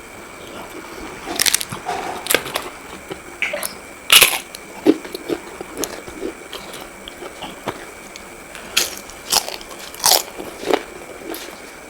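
A person biting and chewing crunchy fried puri, close to the microphone: irregular sharp crunches, the loudest about four seconds in.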